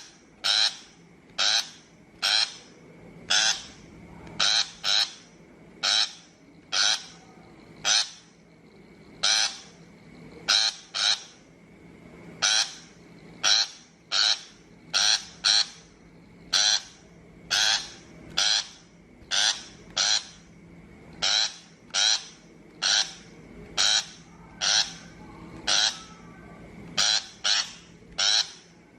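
Shrike giving short, harsh, scolding calls over and over, about one a second and now and then two in quick succession.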